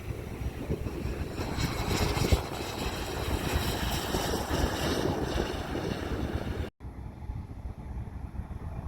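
Aircraft engine rumble mixed with wind buffeting the microphone, swelling for a few seconds, then cutting out abruptly near the end and resuming quieter.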